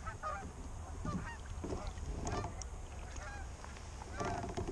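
Geese honking, a run of short repeated calls from several birds, some overlapping, with a low wind rumble underneath.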